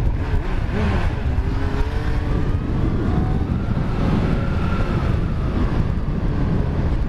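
Yamaha FZ1's 1000 cc inline-four engine with an aftermarket exhaust running under way, its pitch rising and falling with the throttle over a steady low rumble.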